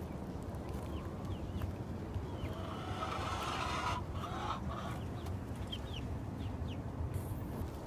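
Backyard hens clucking, loudest about three to four seconds in, with short high chirps scattered throughout.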